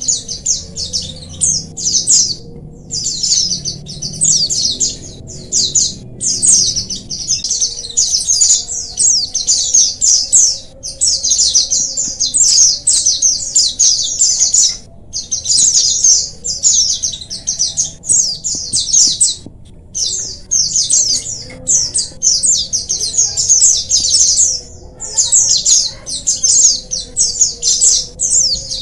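A flock of white-eyes (pleci) chattering: fast, high twittering calls overlapping in continuous runs, with brief breaks every few seconds.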